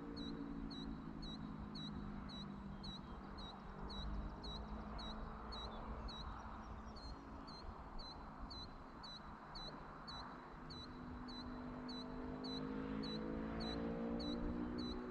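Rural evening ambience: a short, high chirp repeats about two to three times a second. Under it runs a low droning hum that slowly bends in pitch, swelling near the start and again near the end.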